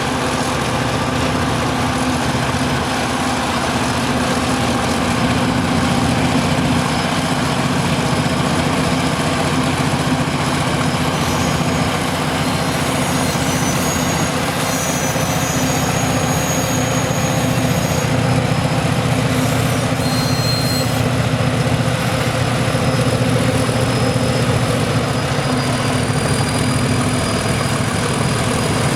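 Diesel freight locomotives' engines running with a steady low drone.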